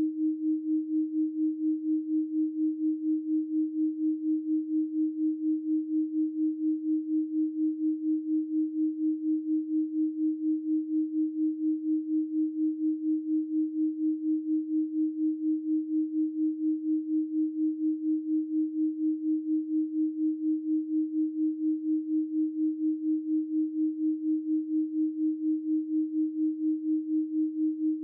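Steady electronic 312 Hz pure sine tone, a single low hum with no other sound, pulsing slightly about four times a second.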